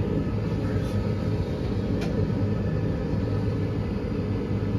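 Gas furnace's inducer draft motor running with a steady low hum, in the stage before the gas valve opens while the igniter heats up. A faint tick about two seconds in.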